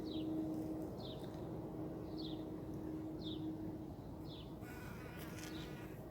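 Outdoor animal sounds: a short, high, falling note repeated about once a second over a steady low buzz, with a harsher rasping call about four to five seconds in.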